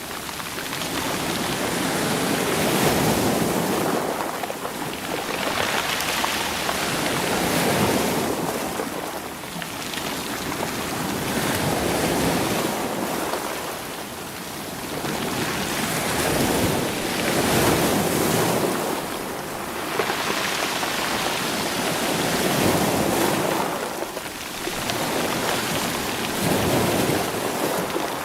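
Sea waves washing in over rocks and stones, the water rushing and pulling the stones so they roll. The surf swells and falls back every two to three seconds.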